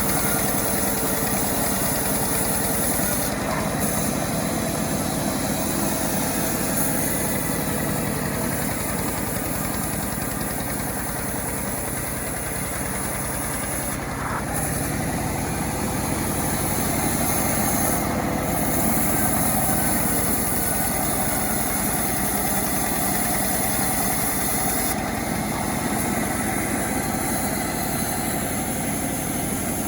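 Homemade chainsaw engine running steadily, with a slight dip in level partway through and a small rise later.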